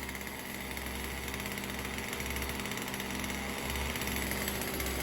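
Poulan Pro 4620 chainsaw's two-stroke engine idling steadily.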